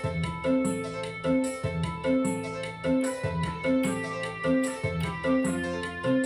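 Yamaha PSR-450 portable keyboard playing a melody in a piano or organ voice over a drum-and-bass accompaniment with a steady beat.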